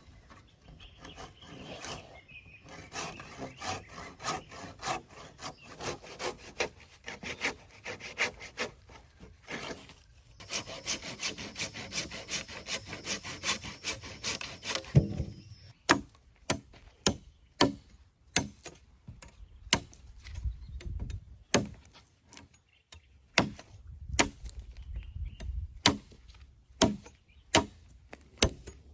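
Hand saw cutting through wood in steady back-and-forth strokes, then, after a short pause about halfway through, a run of single sharp knocks on wood at roughly one a second.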